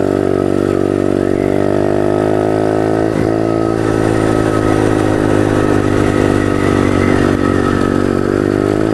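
Pit bike's small single-cylinder engine running under way over dirt, with a brief dip in revs about three seconds in, after which it runs rougher.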